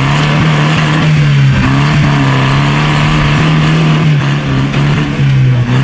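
Tractor engine running loud and steady, its pitch dipping briefly a few times.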